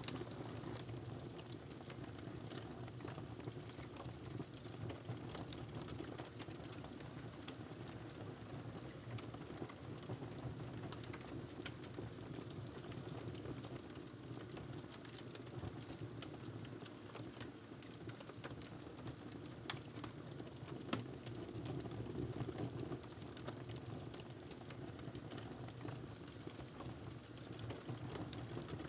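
Wood fire in a fireplace crackling: a steady low rumble with many small scattered pops and snaps, two sharper snaps a little past the middle.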